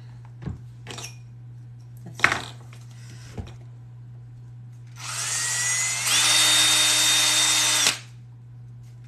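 A few handling knocks, then an electric drill boring rivet holes through thick leather. It starts about five seconds in, rises in pitch to a steady high whine, and stops after about three seconds.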